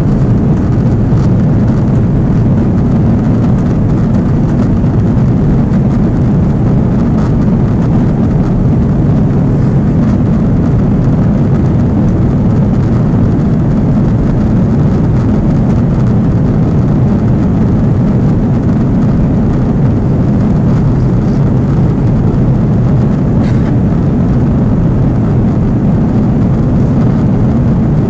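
Airbus A330 jet engines and rushing air heard as a steady, loud, low noise, unchanging throughout.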